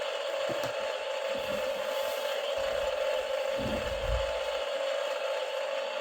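Toy RC battle tank's built-in sound module playing its simulated tank engine noise through a small speaker: a steady, hissy drone with a hum, with a few low thumps between about half a second and four and a half seconds in.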